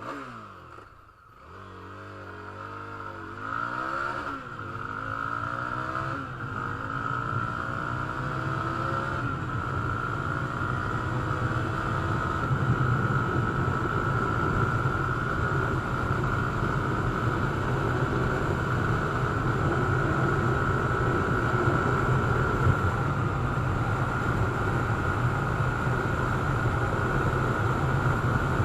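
Yezdi Scrambler's single-cylinder engine under hard acceleration through the gears: its pitch climbs and drops back at shifts about four and six seconds in, then climbs more slowly and holds steady at top speed. A steady rush of noise builds over the engine as speed rises.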